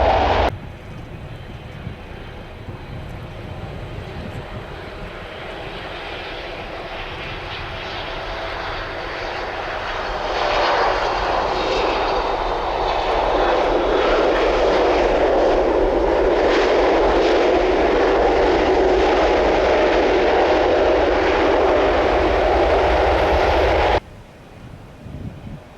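Jet airliner on approach to land, its engine noise building as it comes closer and then running loud as it passes, with whining engine tones that slide down in pitch. The sound cuts off suddenly near the end.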